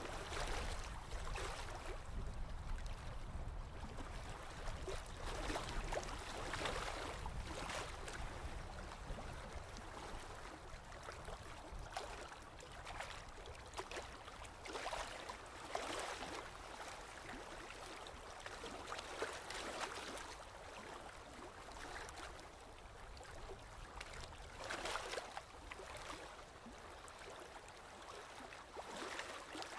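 Sea waves washing in and draining back, each surge of hiss rising and fading every few seconds, over a steady low rumble.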